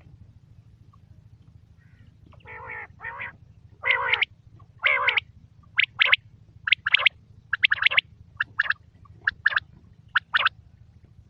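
Quail calling. A few longer, lower calls with bending pitch come first, then from about halfway a quick series of short, sharp, high calls.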